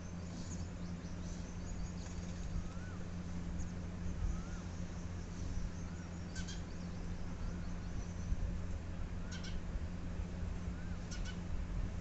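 Sparrows chirping in short high notes, with louder bursts of chirps about six, nine and eleven seconds in, over a steady low hum.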